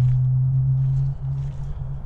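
Footsteps on a muddy footpath over a steady low drone, which is the loudest sound.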